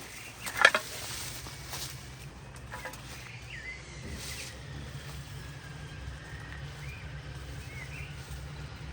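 A single sharp crack or knock about half a second in, followed by a few lighter clicks, over a steady low rumble; small birds chirp now and then.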